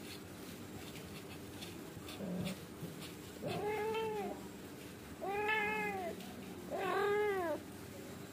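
Angora cat meowing three times, each a drawn-out meow that rises and falls in pitch, about a second apart.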